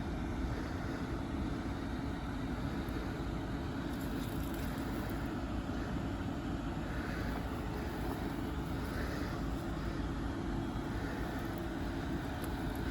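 Steady low rumble of a motor vehicle running, unchanging throughout, with no distinct knocks or other events.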